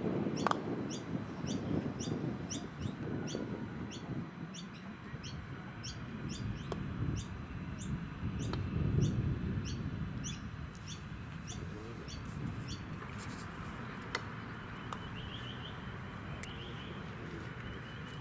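A bird giving a short, high chirp over and over, about twice a second, stopping about two-thirds of the way in, over a low rumbling noise. A single sharp click sounds near the end.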